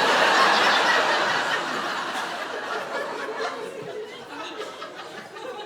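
Comedy club audience laughing after a punchline, loudest at first and dying away over several seconds.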